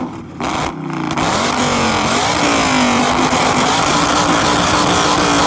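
BMW E39 M5's S62 V8 running through straight pipes, very loud. The revs rise and fall briefly in the first couple of seconds, then hold at a steady, fairly high pitch.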